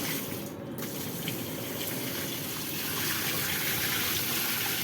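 Water gushing steadily into a washing machine tub as it is filled to test whether it holds water.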